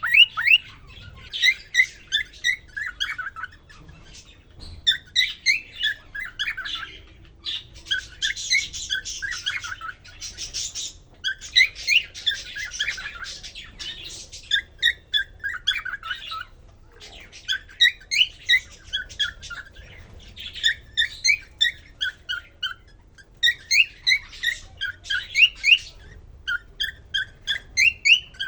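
Male cockatiel singing: phrase after phrase of short, rising whistled chirps, each phrase lasting a second or two with brief pauses between, some stretches more chattering. It is the male's courtship song to a newly introduced female.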